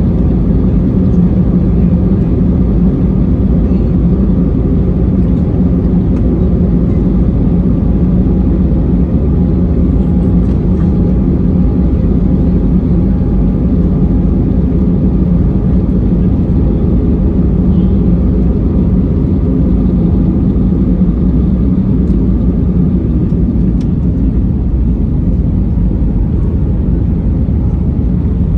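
Airbus A320neo cabin noise in flight: a steady, loud rumble of the engines and airflow with a low hum, unchanging throughout.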